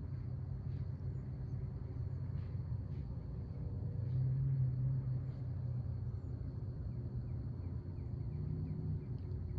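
Outdoor backyard ambience: a steady low rumble that swells slightly about halfway through, under a continuous thin high insect whine and a few faint short chirps.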